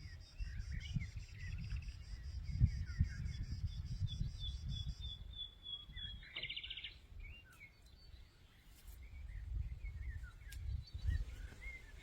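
Small birds chirping and trilling, with a high trill about five to seven seconds in. A steady, high pulsing buzz stops about five seconds in, and a low rumbling noise runs underneath.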